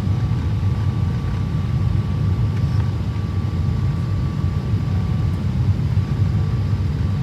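Steady low rumble of a Boeing 777-300ER heard from inside the economy cabin on final approach, with a faint steady whine above it.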